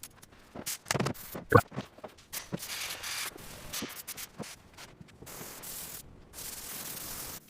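Restoration work sounds: a run of sharp knocks and clicks, then several stretches of steady hissing that cut off abruptly.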